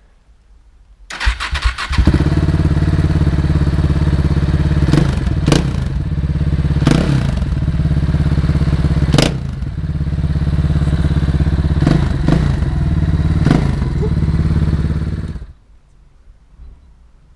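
KTM 690 Duke's single-cylinder engine with a Remus exhaust starting about a second in, then running loud with several short, sharp throttle blips. It shuts off abruptly near the end.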